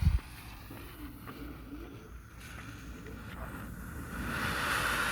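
A short low thump at the start, then faint outdoor rumble; about four seconds in, a steady hiss starts up as the Brain Freeze firework ignites.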